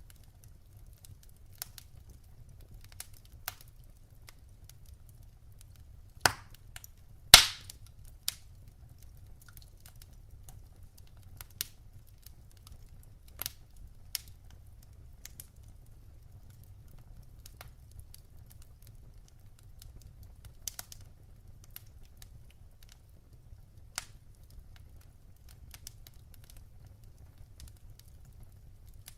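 Wood fire burning in a fireplace: a low steady rumble with scattered sharp crackles and pops, two loud pops close together about a quarter of the way in.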